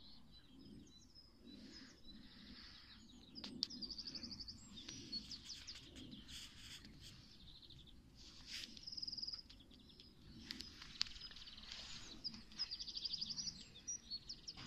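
Faint songbirds singing, with several rapid high trills and chirps, over a low steady background noise; a couple of sharp clicks stand out.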